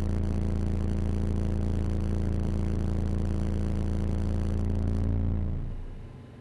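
Steady low drone with even overtones inside a car, holding one pitch, then fading away about five and a half seconds in.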